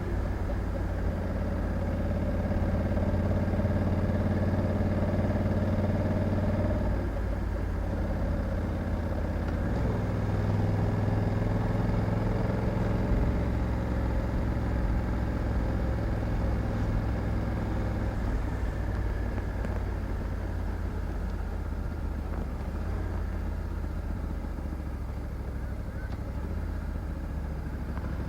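Honda Africa Twin 1100 DCT motorcycle's parallel-twin engine running steadily while riding, over a low rumble. Its note changes about 7 seconds in and again about 10 seconds in.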